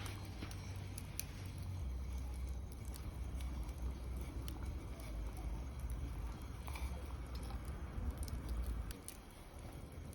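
Wood fire crackling in a fire stand, with irregular sharp pops over a low rumble that eases about nine seconds in.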